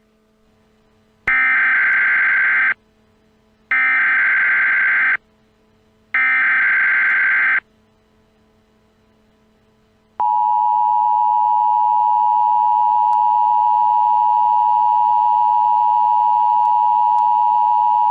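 Emergency Alert System tones opening a new alert: three screeching bursts of SAME digital header data, each about a second and a half long with a second's gap between them, then the EAS attention signal, a steady two-note tone starting about ten seconds in and holding for about eight seconds.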